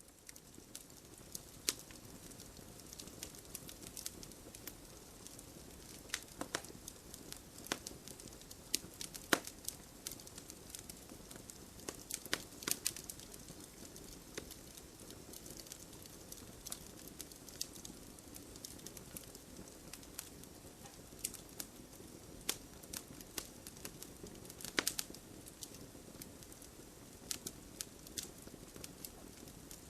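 Campfire logs burning, with a steady low hiss and frequent irregular sharp crackles and pops, a few of them louder.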